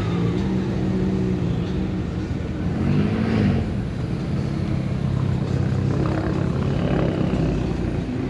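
Car engine running steadily, its note rising and falling once about three seconds in.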